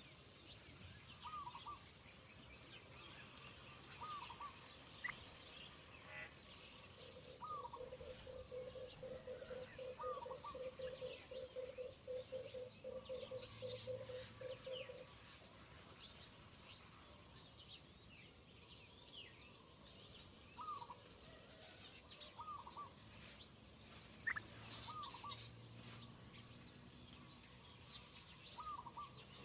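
Faint outdoor ambience with birds calling: a short, slightly descending call repeated every second or two, scattered faint high chirps, and a low pulsing trill lasting about eight seconds in the first half.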